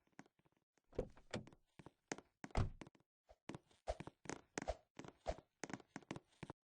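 A quick, irregular run of short knocks and thuds, about twenty strokes with dead silence between them, the heaviest about two and a half seconds in.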